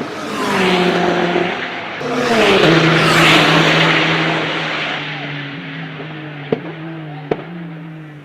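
Porsche 911 GT3 Cup race cars' flat-six engines passing at speed, their pitch dropping as they go by, loudest about three seconds in, then fading to a steadier drone as they pull away. Two sharp clicks come near the end.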